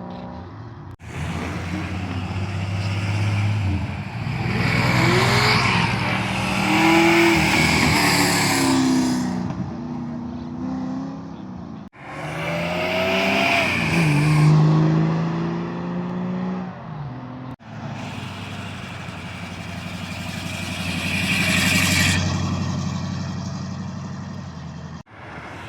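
Several short clips, joined by abrupt cuts, of vehicle engines revving and accelerating hard away, each one swelling in loudness as it pulls off.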